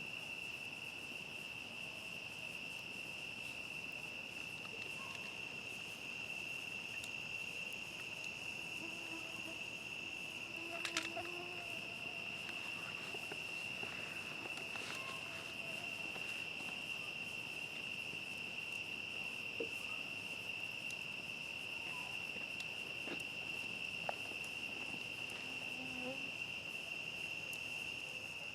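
Steady chorus of crickets, one unbroken high trill. A few sharp pops from the crackling campfire cut through it, the loudest about eleven seconds in.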